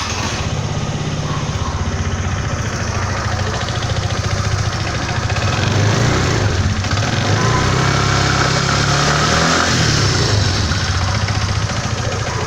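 Suzuki Burgman 125 scooter's single-cylinder four-stroke engine running just after starting, idling with its pitch rising and falling slightly a couple of times. This is a test run after a broken drive pulley and rollers were replaced.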